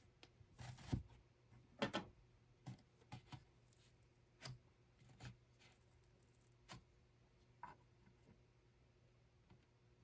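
Scattered light clicks and taps from hand weaving work, irregular and roughly one a second, the loudest near the start.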